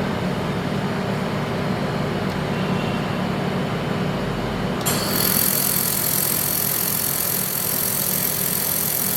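Handheld fiber laser welding machine at work: a steady low machine hum, then a high steady hiss cuts in suddenly about halfway and holds, the sound of the weld running.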